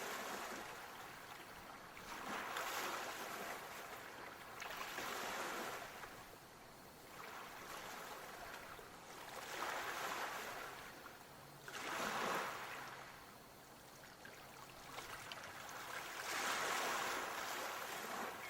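Ocean waves washing in, the surf swelling and fading in surges every two to three seconds.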